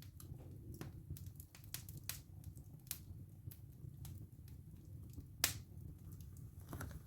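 Wood fire in a fireplace crackling: irregular sharp pops and snaps over a steady low rumble, with one louder pop about five and a half seconds in.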